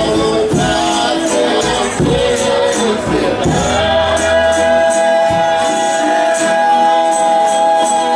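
Folia de Reis music: voices in harmony hold long sustained notes on the 'ai' ending of a sung verse, over a steady tambourine beat and accompaniment. The notes shift during the first few seconds, then settle into one long held chord until near the end.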